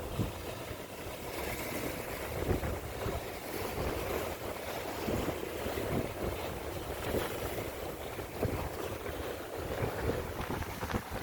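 Strong wind buffeting the microphone in uneven gusts, over the rush of a rough, choppy sea.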